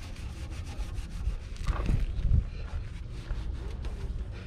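Rag wiping and rubbing dust and grime off the underside of a car around the oil pan, in short scratchy strokes over a steady low rumble.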